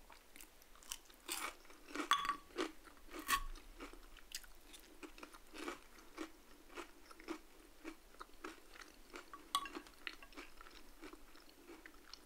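Close-up crunching and chewing of crispy crinkle-cut fries, with the loudest crunches in the first few seconds and another near the end. In between come steady chewing strokes about twice a second.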